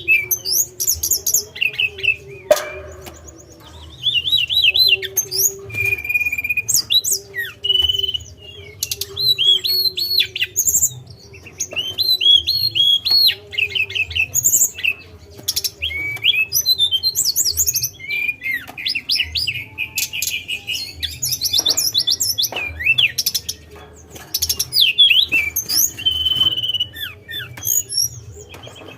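Tledekan (blue flycatcher) singing: quick, varied phrases of chirps, trills and clear whistles with brief pauses between them, over a faint steady hum.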